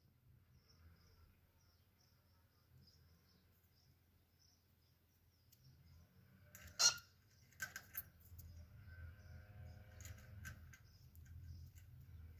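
Pet cockatiel mostly quiet with faint high chirps, then one sharp chirp about seven seconds in, followed by a couple of short clicks and soft chattering.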